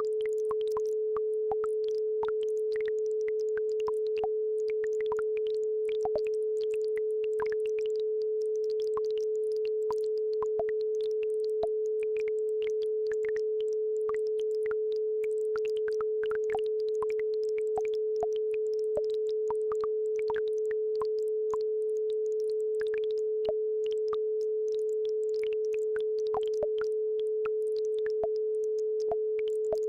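A steady 432 Hz tone from a brainwave-entrainment track holds without a break. Babbling brook sounds sit faintly above it as scattered little trickles and drips.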